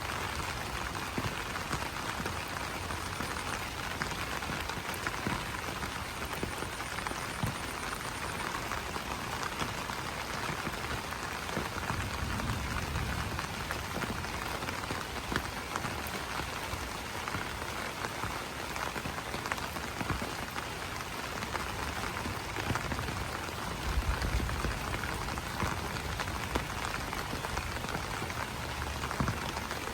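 Steady rain pattering on broad banana leaves, a dense hiss of drops with many individual taps standing out. Brief low rumbles come about twelve and twenty-four seconds in.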